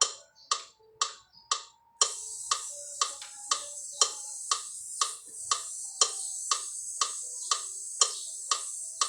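Metronome ticking about twice a second, joined about two seconds in by a long, steady "sss" hiss as a singer exhales through the teeth in a vocal warm-up.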